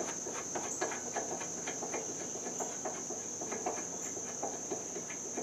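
Steady high-pitched insect chorus, with scattered light clicks and taps of hand work on the tractor's parts.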